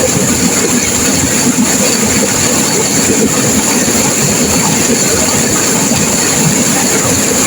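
Turbulent river water rushing and crashing, a loud, steady, unbroken noise.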